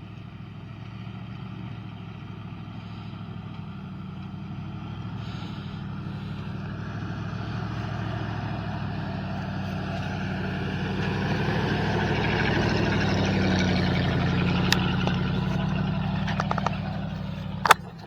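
2007 RAM 1500's 5.7 HEMI V8 pickup straining up a steep, rocky hill in two-wheel drive. The engine grows steadily louder over about twelve seconds, then eases off, with a sharp click near the end.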